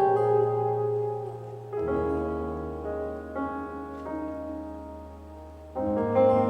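Piano playing the slow closing chords of a ballad: each chord is held and fades away, with a new chord struck about two seconds in and another near the end.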